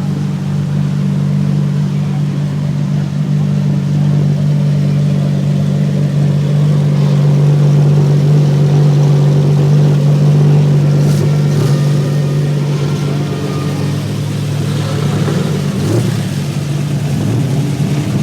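An engine running steadily at an even speed, with a few short clicks about eleven and sixteen seconds in.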